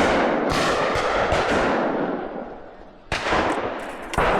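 Several shotgun reports on a clay shooting ground, each followed by a long fading echo. The loudest come at the start, about three seconds in and near the end, with fainter reports between them.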